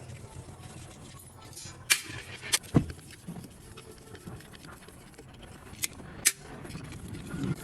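Metal tools and parts being handled during work on an electric winch: a handful of sharp clinks and knocks, three around two to three seconds in and two more around six seconds in, over a low steady background hum.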